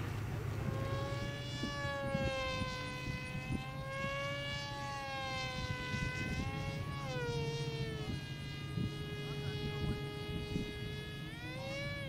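Aerobatic biplane's engine and propeller buzzing in flight, the pitch wavering up and down as it manoeuvres, with a falling glide about seven seconds in and a rise and fall near the end.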